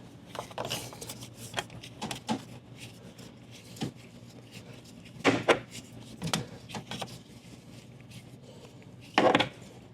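Tools and parts being handled: scattered light knocks and clicks, with two louder clattering sounds about five and nine seconds in.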